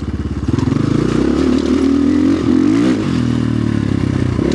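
Orion RXB250XL dirt bike engine pulling under throttle on a trail ride. The revs climb about two seconds in, drop back near three seconds, then the engine runs steadily.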